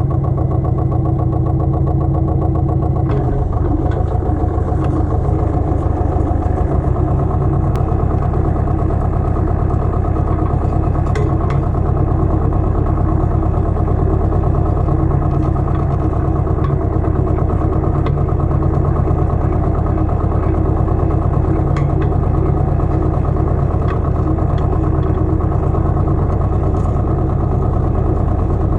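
Pasquali 980 EX compact tractor engine running steadily. Its note changes about three seconds in, and a few light clicks come through now and then.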